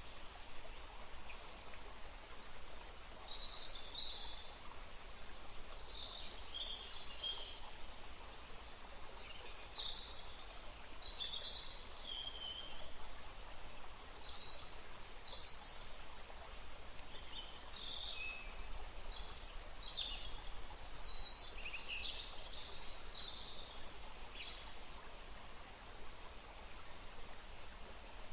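Several birds chirping and trilling in short calls again and again, over a steady rushing of wind in trees and running water.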